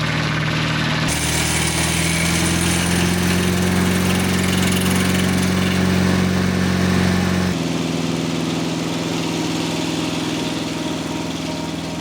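Engine of a Mobile Dimension circle sawmill running steadily, its pitch and loudness shifting abruptly about a second in and again about two-thirds of the way through.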